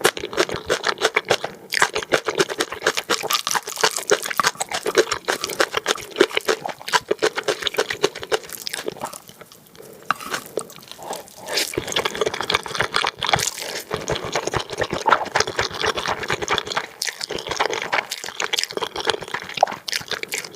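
Close-miked wet chewing and slurping of spicy black bean noodles: a dense run of sticky mouth clicks and smacks, easing off briefly a little before halfway.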